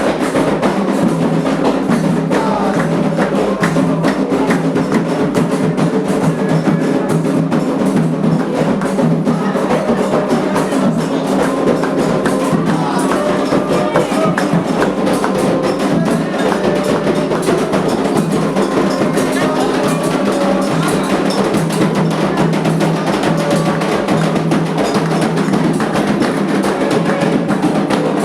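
Candomblé ritual music: atabaque hand drums and other struck percussion keep up a steady, dense rhythm under group singing.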